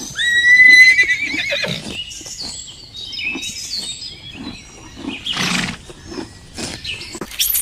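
A horse whinnying: one long, high call that quavers near its end. It is followed by a jumble of shorter high calls and a brief noisy burst.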